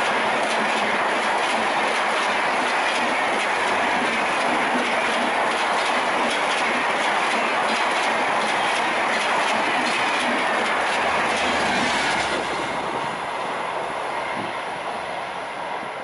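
Express train coaches passing at high speed, a loud steady rush of wheels on rail with rapid clicking over rail joints. About twelve seconds in, the noise falls away and keeps fading.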